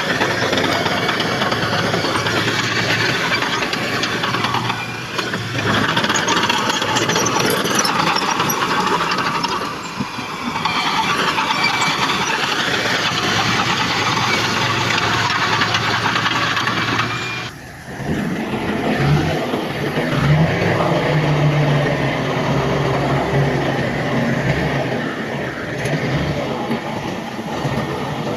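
Heavy earthmoving machinery at work: a bulldozer and dump trucks with their diesel engines running under load, in a dense, continuous mechanical noise. About eighteen seconds in, the sound cuts off suddenly and changes to a steadier diesel engine drone with a low hum.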